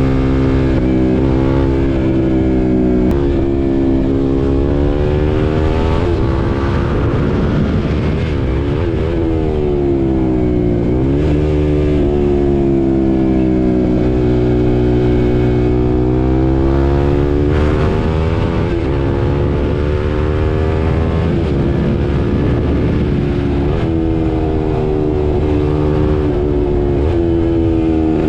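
KTM RC 390 single-cylinder engine under way, its pitch climbing as it is revved out and dropping in steps at gear changes. Around the middle the revs fall to a low point and then climb hard again.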